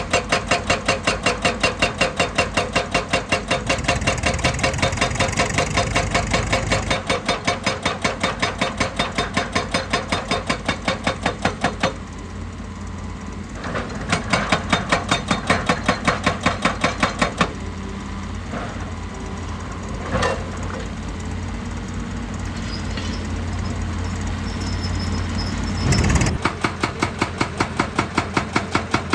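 A machine's engine running with a fast, even pulsing beat. The beat drops out about twelve seconds in, leaving a steadier low engine hum with a sharp click, and comes back near the end.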